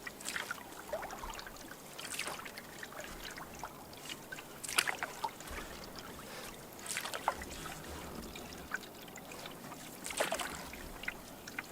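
Canoe paddle strokes in lake water: a light splash and trickle of water off the blade about every two to three seconds.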